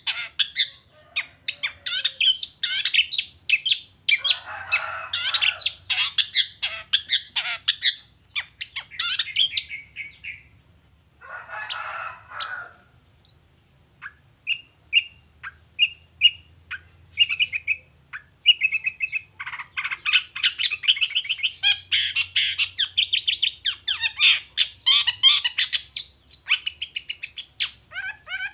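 Long-tailed shrike (cendet) singing a fast, varied chattering song, with two harsh, buzzy stretches and a run of short repeated notes between them.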